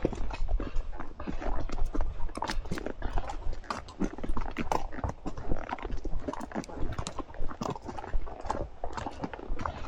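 Horses' hooves clopping on the trail, many irregular, overlapping steps, over a low rumble.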